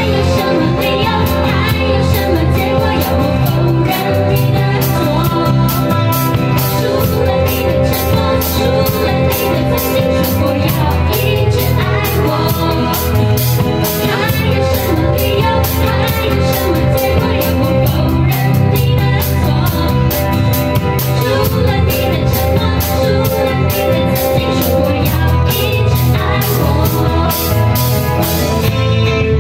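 A female singer performing a Mandarin pop ballad live over an accompaniment of guitar and a steady drum beat.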